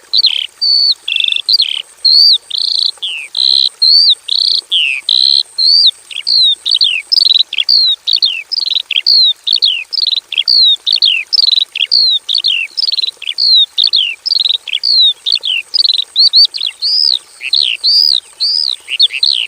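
Horsfield's (Javan) bush lark singing a long, unbroken song of short slurred whistles, most of them falling in pitch, about two to three notes a second.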